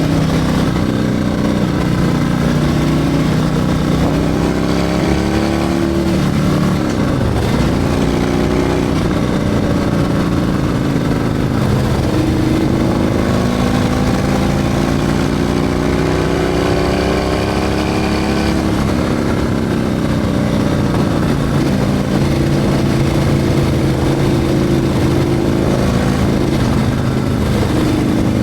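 Harley-Davidson Milwaukee-Eight 114 V-twin with a Screaming Eagle 447 torque cam, ridden under way. The engine pitch climbs through the gears and drops sharply at the shifts, a few seconds apart around the middle, then holds steady near the end.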